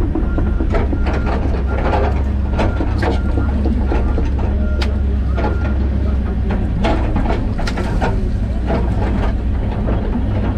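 John Deere 130G excavator's diesel engine running steadily under load, with repeated sharp cracks and knocks from brush, trees and roots being torn out and the machine working. A repeating short beep sounds through the first few seconds and then stops.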